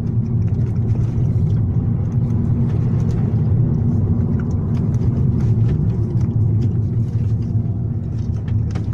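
Volkswagen Golf Mk6 GT with its 1.4 TSI petrol engine being driven: a steady low rumble of engine and road noise, with a few faint light knocks.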